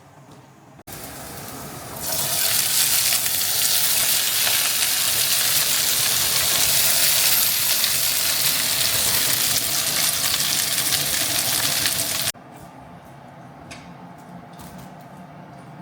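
Food sizzling in a hot frying pan: a loud, even sizzle that swells in about two seconds in and cuts off abruptly about three-quarters of the way through.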